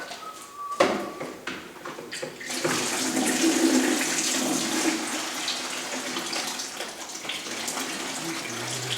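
Water rushing steadily through copper supply pipe after a valve is opened, draining the line so a solder joint can be reheated. A knock comes about a second in, before the rush starts.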